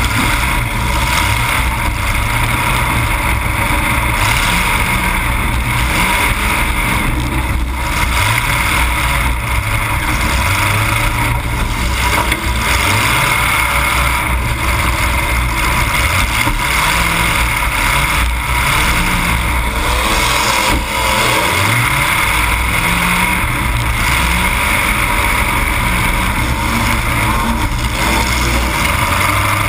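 Demolition derby car's engine running loud through open exhaust pipes that stick straight up through the hood, revving up and down over and over.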